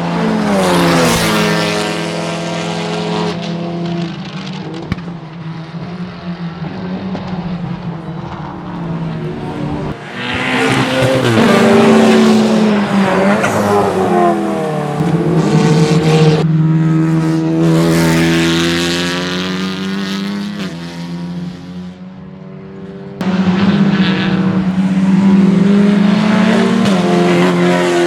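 Touring race cars running at racing speed, their engines revving up and down through gear changes as several cars pass in turn, the sound swelling as each one goes by.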